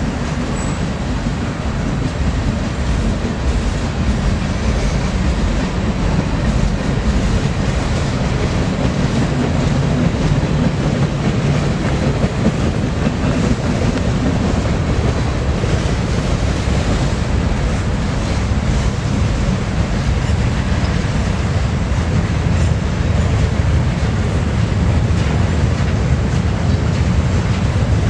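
Freight train rolling past, its railcars running on the track as a loud, steady rumble.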